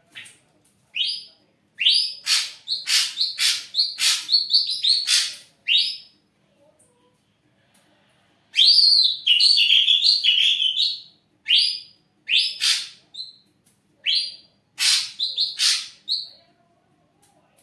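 Ashy drongo singing loudly: bursts of rapid, sharp whistled and chattering notes in four phrases, each a second or more long, with short pauses between them.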